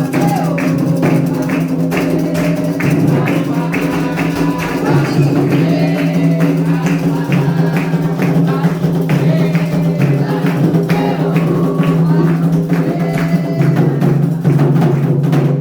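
Candomblé ritual music: atabaque hand drums beating a steady rhythm with other percussion, under singing voices.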